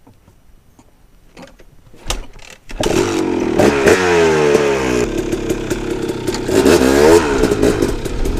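KTM two-stroke dirt bike engine: a few clicks and knocks, then the engine starts about three seconds in and revs up and down repeatedly.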